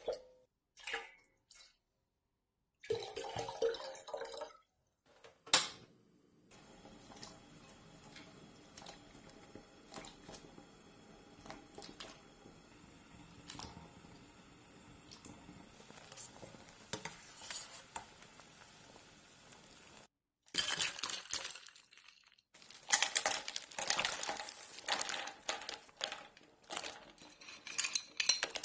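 Kitchen preparation sounds in several short clips: dishes and utensils clinking and clattering, with liquid being poured and dripping. The clatter is densest and loudest near the end.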